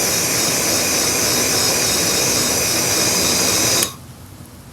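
Steady rushing hiss of a pressurised gas jet, cutting off abruptly a little before the end.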